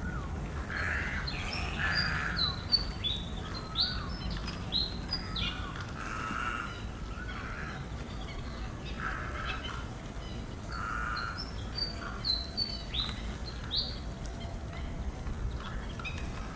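Wild birds calling: runs of short, sharp notes that each drop in pitch, twice in long series, with lower calls between them.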